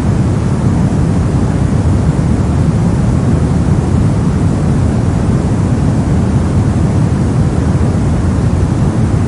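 Steady brown noise: a deep, even rushing hiss weighted toward the low end, with no changes.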